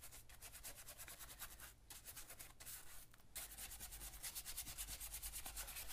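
Dry paintbrush scrubbing paint onto gesso-textured paper: faint, rapid, even back-and-forth rubbing strokes, with brief pauses around two and three seconds in.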